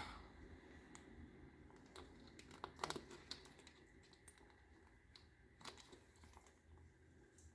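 Near silence broken by a few faint clicks and taps: a Moluccan cockatoo picking at window blinds with its beak. There is a quick cluster of clicks about three seconds in and a single click later on.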